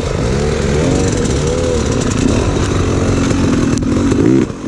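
Dirt bike engine revving up and down repeatedly as the rider works the throttle over rough terrain, with a dip in the sound near the end.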